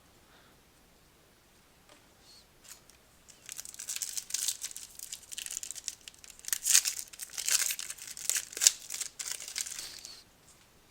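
A foil wrapper of a 2014 Panini Prizm football card pack being torn open and crinkled by hand. It starts about three and a half seconds in and goes on with irregular crackles for about six seconds.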